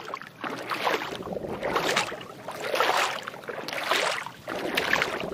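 Sound given for a tortoise: noisy, water-like rushing swells that rise and fall about once a second, with no voiced call.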